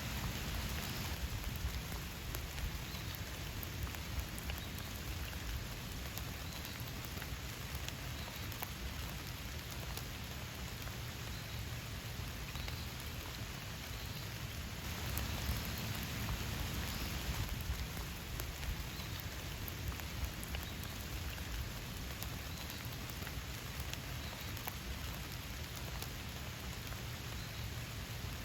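Steady rain falling, a dense patter of drops that swells slightly about halfway through.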